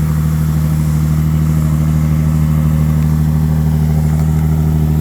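2018 Jaguar F-Type 400's supercharged V6 idling steadily just after a cold start at about 12 degrees, with its active exhaust in the louder setting.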